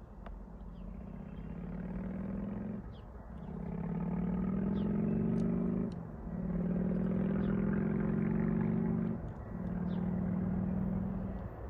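Approaching locomotive's air horn sounding four long blasts, a steady multi-note chord, with short gaps between; birds chirp faintly in the background.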